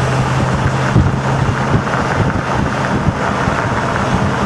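Wind buffeting the microphone in loud, uneven gusts. A steady low hum, like a distant motor, fades out about a second in.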